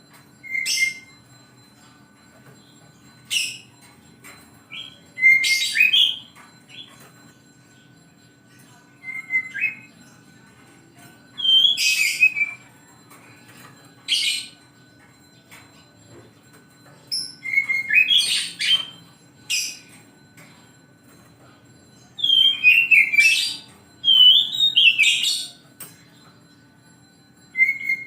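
Oriental magpie-robin (kacer) singing in short bursts of whistled, chattering phrases with pauses of one to two seconds between them, over a faint steady hum.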